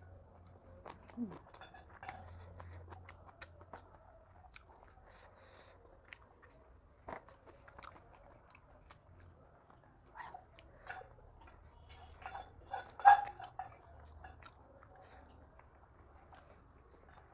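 A person chewing food close to the microphone, with wet mouth smacks and small clicks. A louder cluster of crunching and smacking comes about 12 to 13 seconds in.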